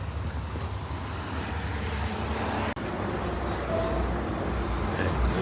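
Steady road noise of a car travelling at highway speed: a low rumble with tyre hiss. The sound cuts out briefly under three seconds in.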